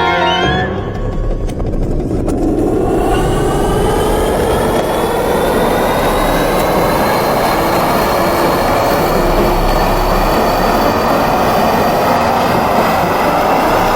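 Loud, steady machine noise with a whine that climbs slowly and evenly in pitch throughout.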